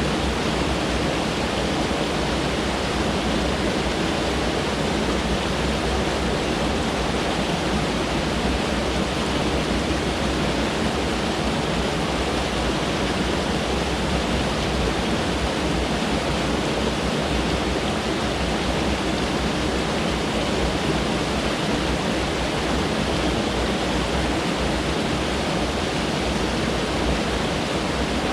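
Mountain stream rushing over rocks: a steady, unbroken roar of water.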